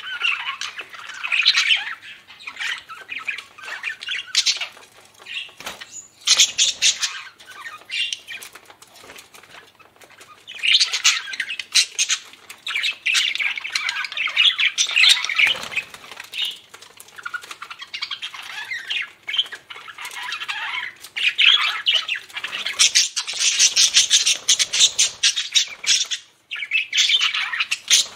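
Budgerigars chattering and warbling: dense, rapid squawks and chirps in louder busy spells with short lulls between.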